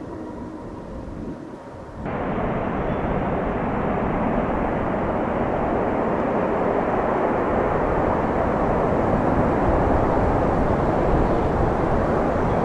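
Jet airliner engine noise: a quieter steady rumble that jumps suddenly about two seconds in to a loud, steady rushing roar, which swells slowly.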